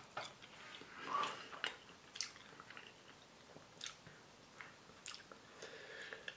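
Quiet chewing of a mouthful of fried potatoes, with scattered faint clicks.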